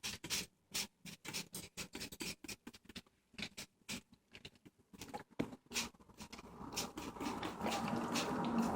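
Quick light scratches and clicks, typical of a cockatiel's claws stepping and scratching on newspaper. About seven seconds in, a steady rushing noise comes in and keeps going.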